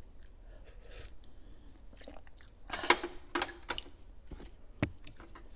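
Close-miked wet clicks and squelches from a spoon in a glass of fruit pieces and coconut jellies in coconut water, with a louder wet stretch about three seconds in and a sharp click near the end.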